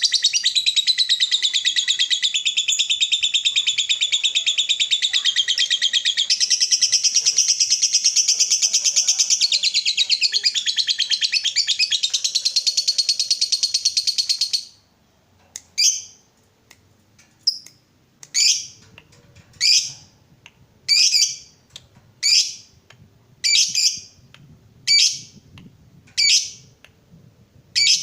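Lovebird giving its long 'ngekek': a rapid, high-pitched chattering trill that runs for about fourteen seconds and stops abruptly. After it come short single sharp calls, about one every second and a bit.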